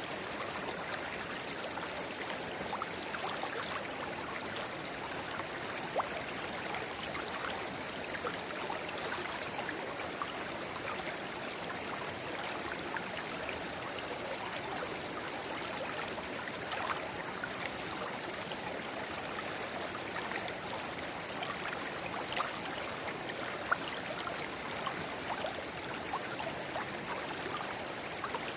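A small river burbling steadily over stones, with small splashes and trickles throughout where a narrow spring-fed rivulet runs into it.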